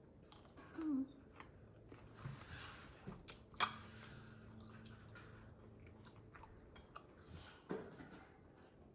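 Close-up chewing and mouth sounds of someone eating large tiger prawns in sauce: scattered wet clicks, with one sharp click about three and a half seconds in and a couple of short hums.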